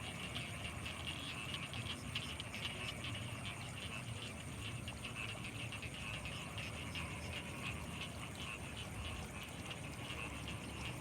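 Dense chorus of frogs calling from flooded rice fields at night: many rapid, overlapping croaks blending into a continuous, even din. A thin, steady high-pitched tone sits above it.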